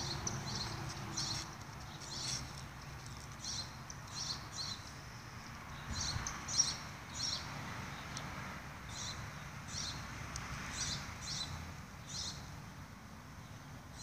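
A bird chirping: short high chirps, often in pairs, repeating every second or so.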